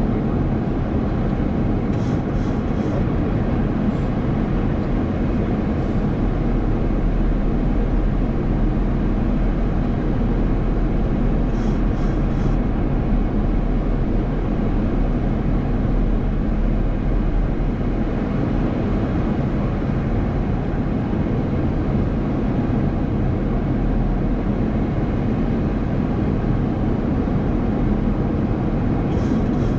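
Steady flight-deck noise of a Boeing 737 MAX 8: a deep, even rush that holds level throughout.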